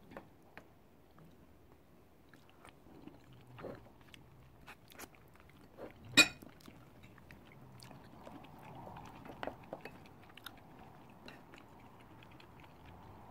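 Close-up chewing and mouth sounds of someone eating butter chicken with garlic rice, with scattered small clicks of a wooden spoon against ceramic bowls. One sharp knock about six seconds in.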